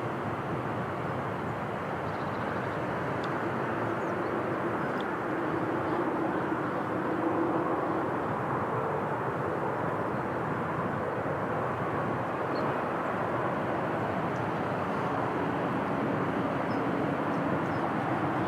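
Steady outdoor rumble with a faint engine drone that slowly shifts in pitch, like distant motor traffic.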